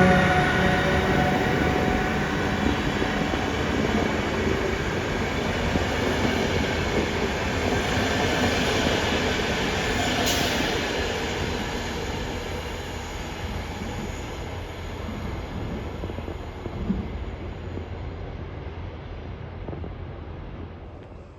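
Passenger train running on the rails, its rumble slowly fading as it moves away; a high whine dies out in the first second or two, and there is a sharp clank about ten seconds in.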